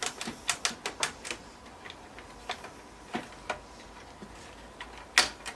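Irregular clicks and knocks from a motherboard being worked loose inside a cramped desktop PC case: a quick cluster in the first second or so, scattered clicks after, and a sharper knock near the end.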